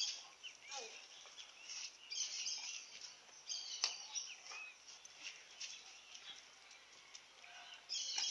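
Birds chirping and calling on and off, short high chirps, with one sharp click about four seconds in.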